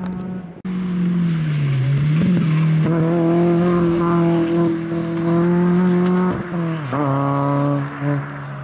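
Rally car engine running under load, its revs dipping and climbing again a few times with throttle and gear changes. The sound breaks off briefly about half a second in.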